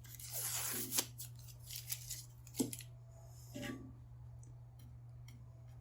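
Tape being peeled and torn off cut plywood pieces in several short rasping pulls, with a few light clicks in between.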